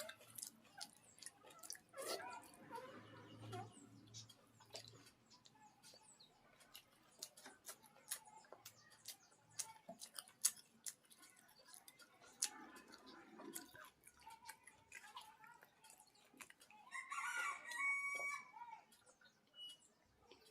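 Close, quiet wet clicks of chewing and lip smacking while eating rice with the fingers. A rooster crows once near the end, and a shorter fowl call comes about two seconds in.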